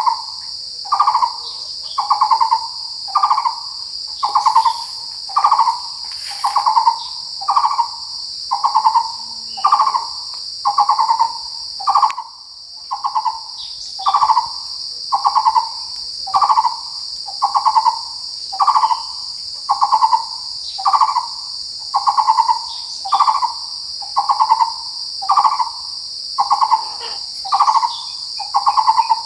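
Taiwan barbet calling a hollow single note over and over at an even pace, about one note every 0.7 seconds, with a short break about 12 seconds in. Under it runs a steady high insect drone.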